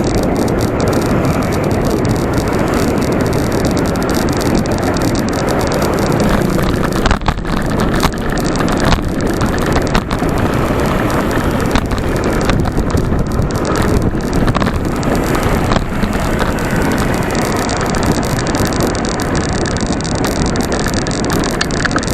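Steady wind rush on the microphone of a moving bicycle, mixed with road and traffic noise, with a few brief knocks about a third of the way in.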